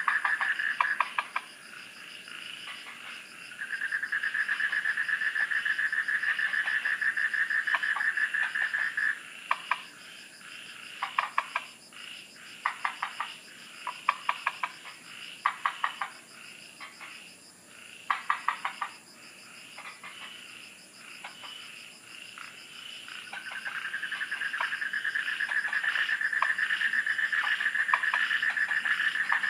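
Frogs calling at night: a long, fast pulsing trill that stops about a second in, returns from about 4 to 9 seconds and again from about 23 seconds on, with short bursts of rapid clicking calls in between. A faint steady high-pitched whine runs underneath.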